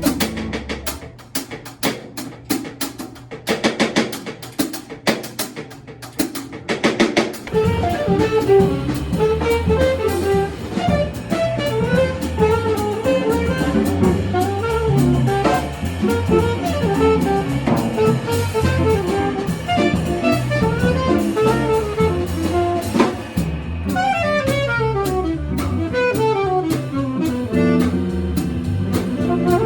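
Jazz quartet playing live. Drums play alone for about the first seven seconds, then the band comes in with a saxophone carrying the melody over the drums and low accompaniment.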